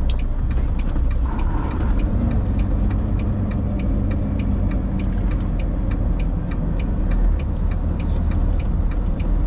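A 2000 Freightliner FLD 112 semi truck's diesel engine running at low speed, heard from inside the cab, with a steady ticking about three times a second from the turn-signal flasher.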